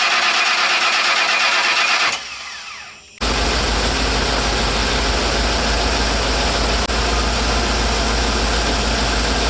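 Ford E350 van's engine being started: it runs for about two seconds and stops, then about three seconds in it starts again and keeps running steadily with a low rumble.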